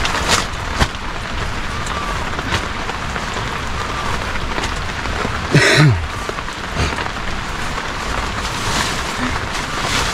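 Rain falling steadily on a tarpaulin shelter overhead, with a few sharp taps of single drops in the first few seconds. A short, louder call cuts in about halfway through.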